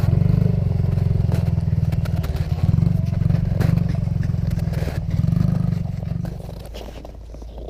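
Dirt bike engine running with a fast, even firing beat that rises and falls with the throttle, then drops away about six seconds in. Scattered clatter and scraping sounds are heard over the engine.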